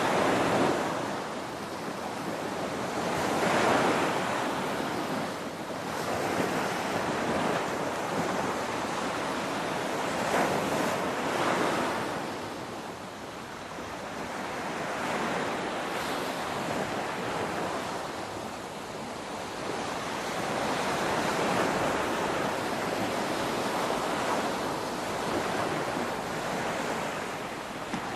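Ocean waves breaking on a shore, a continuous rushing wash that swells and falls back every few seconds as each wave breaks and recedes.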